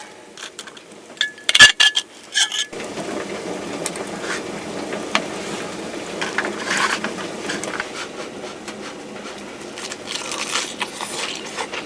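Metal cookware and utensils clinking a few times, one strike ringing briefly. Then a steady hiss with small crackles starts suddenly and carries on.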